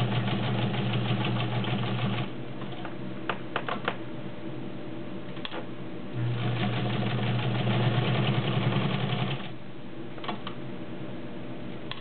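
Kenmore 1207 all-metal sewing machine stitching through two layers of suede leather: its motor runs at a steady speed with rapid needle ticks for about two seconds, then stops. It runs again for about three seconds in the middle and stops, with a few sharp clicks during the pauses.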